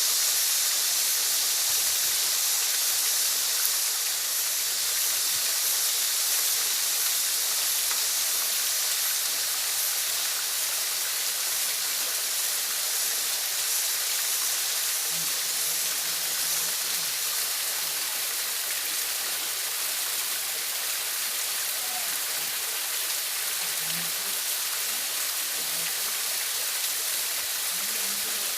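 Waterfall: a steady, unbroken rush of falling water, hissy and strongest in the high end.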